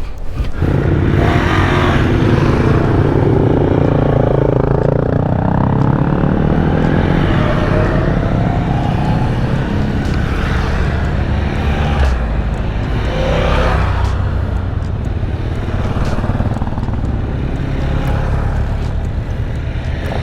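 Motorcycle engine running under way, its pitch rising and falling several times as the rider accelerates and eases off, with wind and road noise over it.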